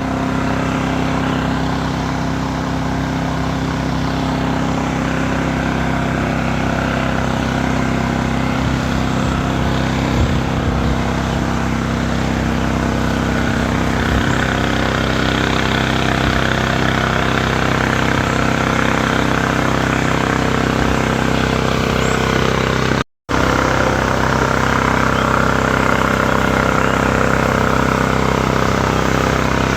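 Steady mechanical hum over a bed of traffic-like noise, level throughout, cutting out completely for a split second about 23 seconds in.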